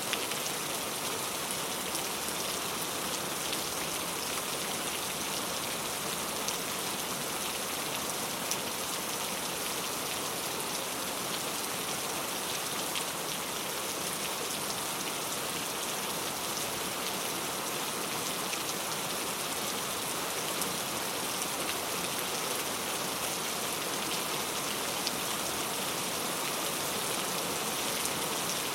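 Heavy, steady rain falling, an even hiss with scattered drop ticks, no thunder.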